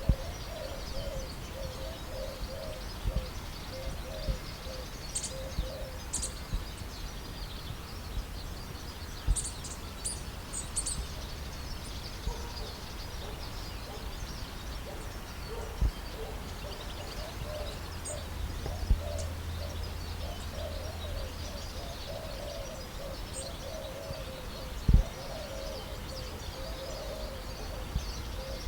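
Birds calling: a repeated low hooting call throughout, with scattered high chirps, broken by a few low thumps, the loudest near the end.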